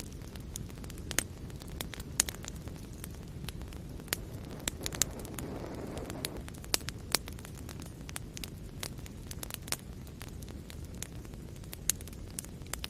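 Wood fire burning in a fireplace: a steady low rumble of flames with frequent irregular crackles and sharp pops, and a brief soft hiss swelling about halfway through.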